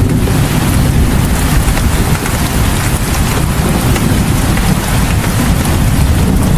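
Rain falling steadily, a dense even hiss with fine patters over a strong low rumble.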